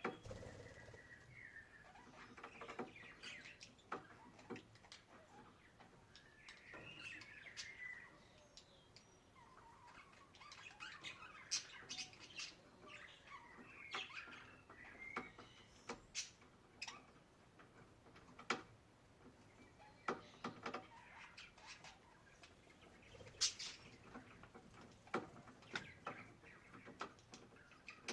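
Budgerigars chirping and warbling softly in short, scattered calls, with sharp clicks in between.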